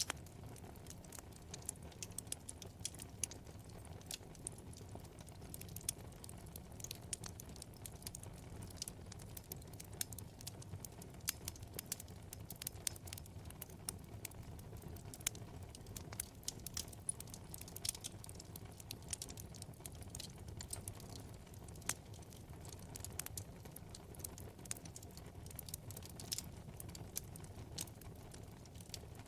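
Wood fire burning in a fireplace: frequent sharp, irregular crackles and pops over a low, steady rumble of flame.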